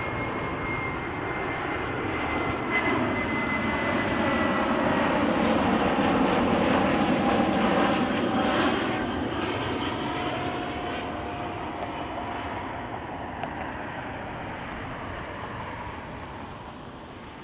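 Airbus A320 airliner's jet engines passing on the landing approach: a high whine and a rush of engine noise swell to a peak about seven seconds in, then fade away, with the tones sliding down in pitch as it goes by.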